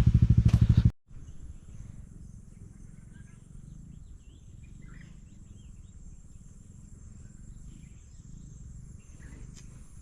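A motorcycle engine running, cut off abruptly about a second in. After that comes forest ambience: a steady high insect drone with scattered faint bird chirps over a low rumble.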